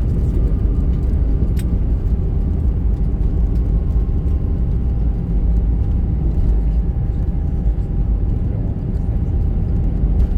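Steady low rumble of engine and airflow noise inside the cabin of an Airbus A320, with a faint steady whine above it and a single light click about a second and a half in.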